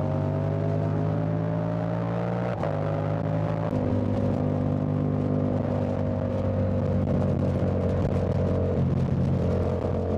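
Yamaha Tracer 7's CP2 parallel-twin engine pulling, its pitch climbing slowly as it gains revs. There is a short break with a click about two and a half seconds in.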